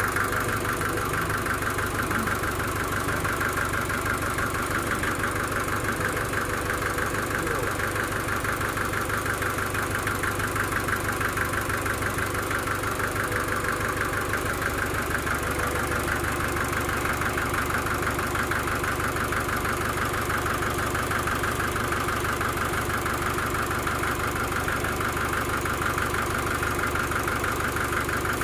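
Sawmill engine running steadily with an even, fast pulsing hum.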